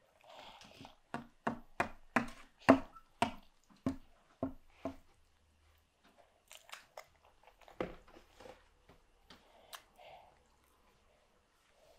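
Toddler chewing a crumpet with her mouth open: a quick run of mouth smacks, about two a second, over the first five seconds, then fewer, softer ones.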